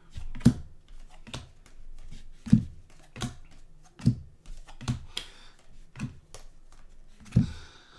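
Trading cards being flipped and set down on a table during a pack break: a series of sharp clicks and taps, about one a second.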